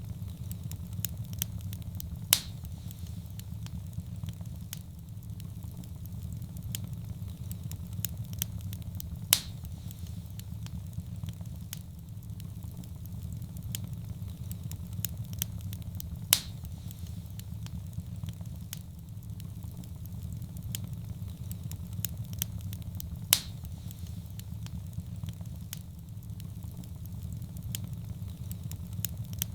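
Wood fire crackling in a fireplace: a steady low rumble of flame under many small crackles, with four louder pops about seven seconds apart.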